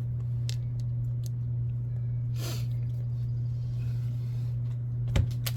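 Steady low hum in a small room, with a few light clicks of small RC wheel parts and hubs being handled, and a short breath about two and a half seconds in.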